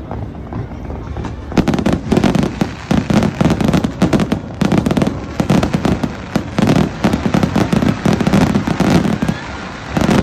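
Fireworks going off in a rapid barrage of bangs and crackles, starting about one and a half seconds in and coming in clusters.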